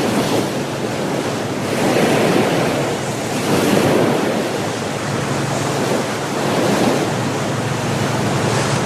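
Ocean surf: waves surging and breaking in a continuous loud rush, swelling and easing every second or two, with wind. A faint steady low hum comes in about halfway through.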